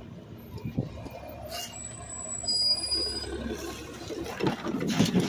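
Garbage truck running with a steady low rumble. Brief high-pitched squeals come in about halfway through, and louder rattling and clanking comes near the end.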